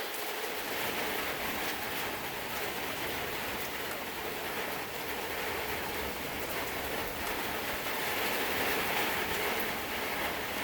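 Heavy thunderstorm rain falling steadily, a continuous rushing hiss that swells a little near the end.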